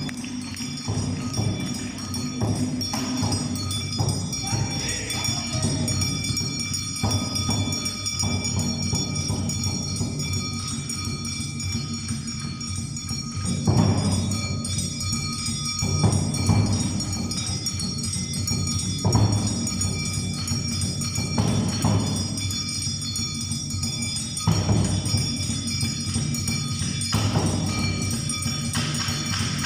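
Live Awa Odori music: heavy drum strikes about every two and a half seconds over steady metallic ringing from hand-struck metal percussion.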